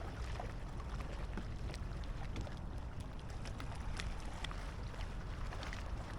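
Small waves lapping and splashing against a kayak's hull, with scattered little splashes and a low wind rumble on the microphone.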